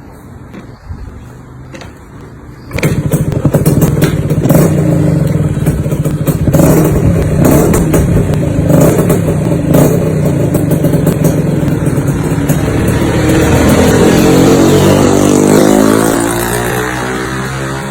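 Yamaha JR120 two-stroke single-cylinder motorcycle engine bursting into loud running about three seconds in, then revved up and down repeatedly, with one long climbing rev near the end that falls back.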